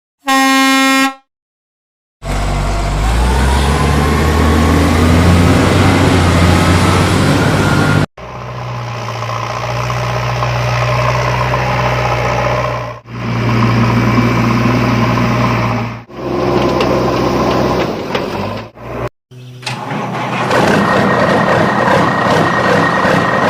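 Vehicle sound effects cut together: a short horn blast near the start, then a motor vehicle engine running with a rise in pitch over a few seconds. The engine then idles in several clips separated by abrupt cuts.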